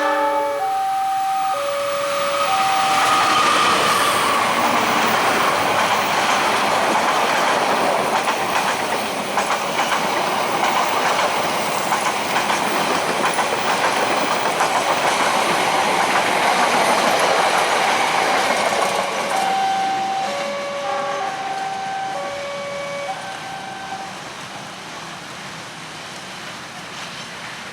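A train rolls over a railway level crossing with a long, steady rumble and wheel clatter that fades after about 19 seconds. The crossing's warning signal sounds alternating two-pitch tones in the first few seconds and comes through again near the end as the train noise dies away.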